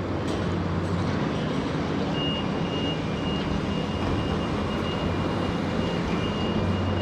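Road traffic and wind noise with a low vehicle engine hum that fades about a second in and returns near the end. A high-pitched electronic beep starts about two seconds in and keeps pulsing on and off.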